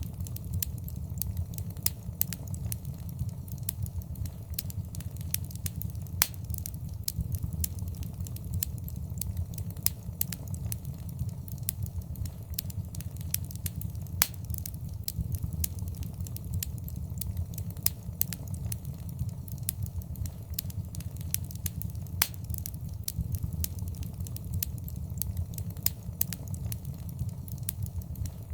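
Wood fire crackling in a fireplace: frequent irregular sharp pops and snaps, a few louder than the rest, over a steady low rumble.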